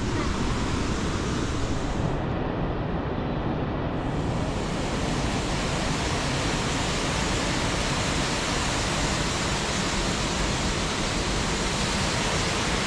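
Steady rushing of a waterfall or fast stream close by, an even wash of water noise.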